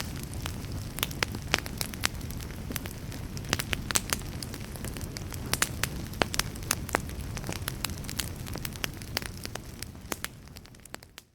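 Wood fire in a fireplace crackling, with frequent sharp pops and snaps over a steady low rumble. The sound fades away near the end.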